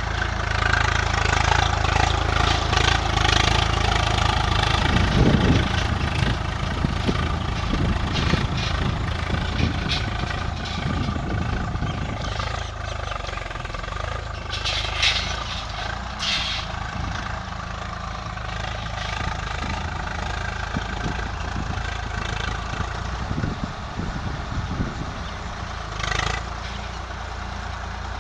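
Diesel tractor engine running steadily, louder over the first several seconds and then settling to an even level, with a few short hissing bursts.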